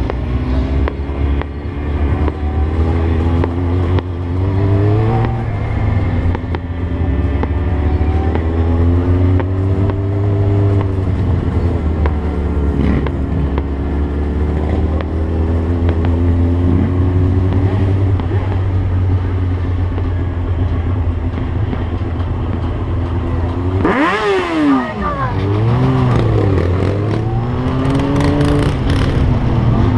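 600 cc inline-four sport motorcycle engine running under way, its pitch rising and falling with the throttle and gear changes over a steady low rumble. About 24 seconds in the note drops sharply, then climbs quickly again.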